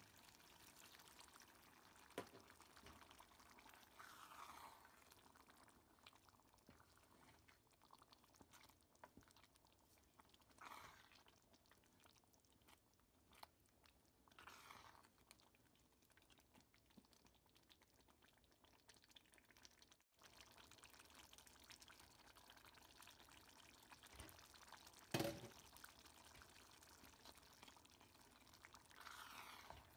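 Near silence with faint wet stirring sounds from a wooden spoon in a pot of thick lentil stew, and a single sharp knock about 25 seconds in.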